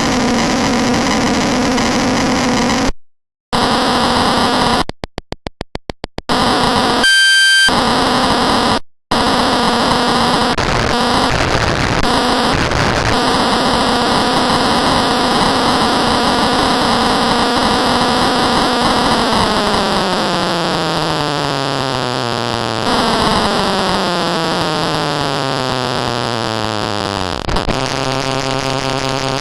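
Loud, harsh electronic noise with many tones layered in. It cuts out abruptly several times in the first nine seconds, with a brief flash of clear high tones around seven seconds. In the second half a dense set of tones sweeps steadily downward in pitch.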